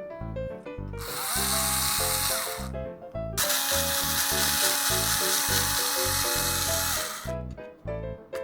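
Background music with two long bursts of power-drill-like whirring over it. In each burst a motor whine spins up, holds steady and winds down.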